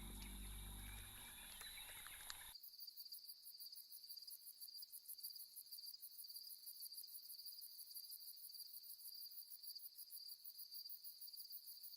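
Faint night chorus of crickets: a steady high-pitched trill with fast, even pulsing. A low music bed fades out in the first couple of seconds.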